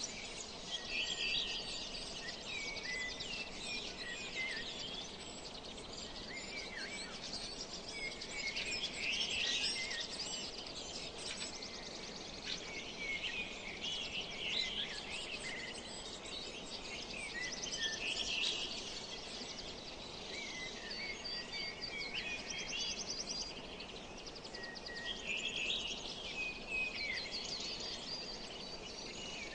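Many small birds chirping and singing at once, their calls overlapping without a break, over a steady background hiss.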